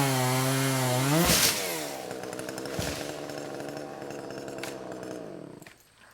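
Chainsaw running at high speed, with a short loud burst of noise a little over a second in, then dropping to a lower steady speed before slowing and dying away near the end.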